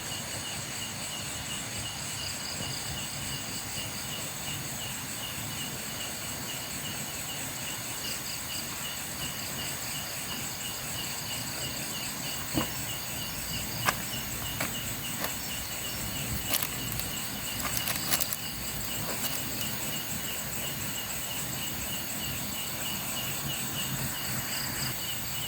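Crickets and other night insects chirping steadily in several layered high-pitched pulsing calls. A few light clicks and snaps come through the middle.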